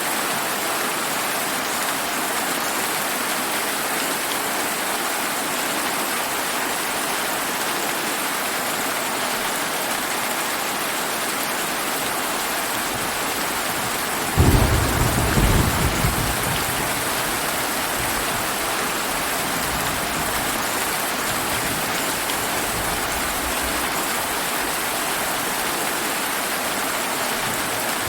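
Steady rain falling, with a single thunderclap about halfway through that hits suddenly and then rumbles away low over several seconds.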